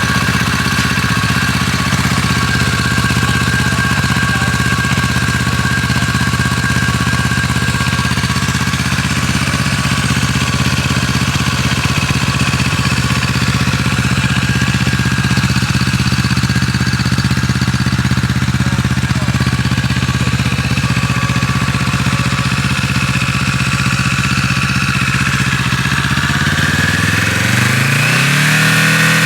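Kawasaki Z650RS parallel-twin engine idling steadily through an SP Tadao POWERBOX FULL 2-in-1 short exhaust, then revving up once near the end as the throttle is blipped.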